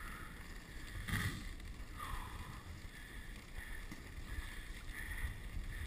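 Dog sled running over snow behind a husky team: a steady rumble and hiss from the runners, with soft repeated sounds about once a second.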